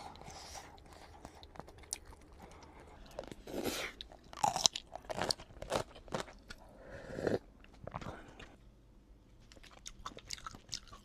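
Close-miked chewing and crunching of food, with sharp crackling crunches, loudest through the middle stretch, then quieter chewing.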